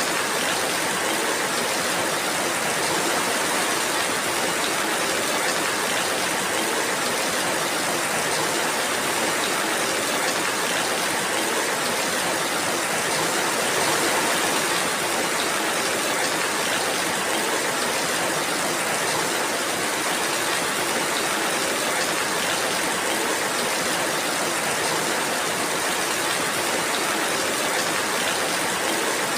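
Steady rainfall, an even hiss of rain with no separate drops, thunder or other events standing out.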